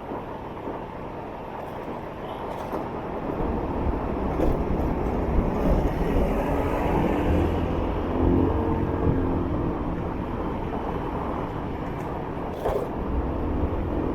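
Riding a motorbike through city traffic: engine running with road and traffic noise, the low rumble growing louder about three seconds in.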